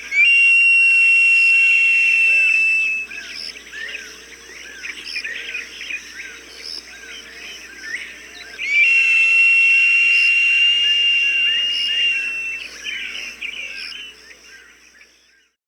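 Falcon cries: two long, steady high-pitched whistled screams, each lasting several seconds, one at the start and one about halfway through, over a dense background of short chirps repeated about twice a second.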